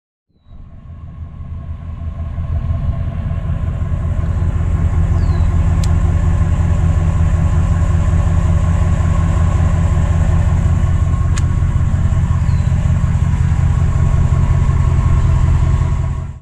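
The 2011 Ram 1500's 5.7-litre Hemi V8 running steadily, a low, even engine sound. It fades in over the first few seconds and cuts off abruptly near the end.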